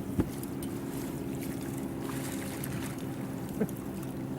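Fishing boat's motor running at a steady idle, with a couple of light knocks, one just after the start and one past halfway.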